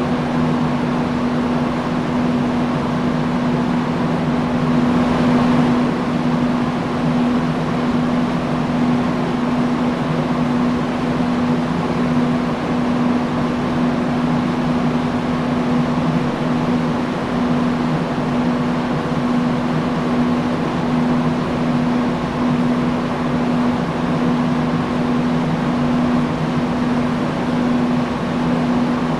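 Industrial fan running at a steady speed: an even rush of moving air over a constant low hum.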